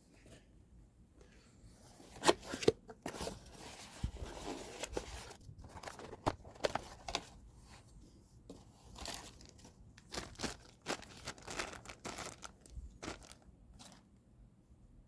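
Irregular rustling, crinkling and tearing handling noises with scattered clicks and knocks, like packaging or parts being handled by hand.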